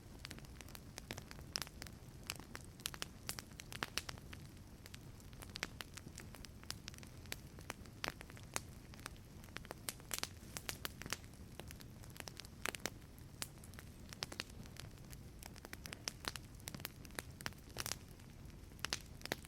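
Wood fire crackling in a fireplace: a low steady rumble of the flames with irregular sharp pops and snaps.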